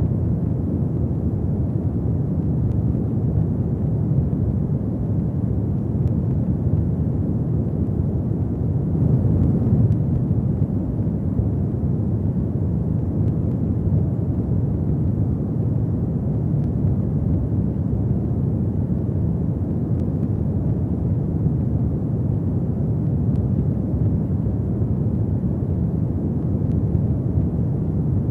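Fireplace fire burning: a steady low rumble of flames with occasional faint crackles, swelling slightly about ten seconds in.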